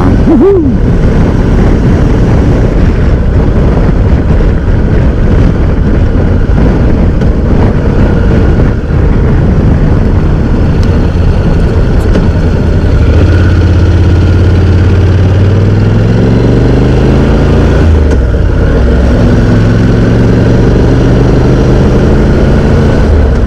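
Honda NC750X parallel-twin engine running under a steady rush of wind noise while riding. About halfway through the engine note comes through clearly and then rises as the bike accelerates.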